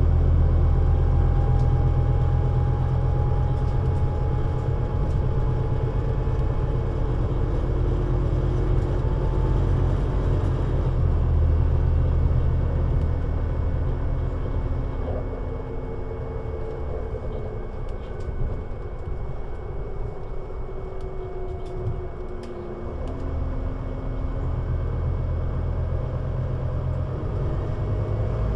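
Scania Citywide LFA articulated city bus driving, its engine running with a strong low rumble and a whine that rises and falls with speed. It eases off about halfway through, drops in pitch briefly, then picks up again near the end.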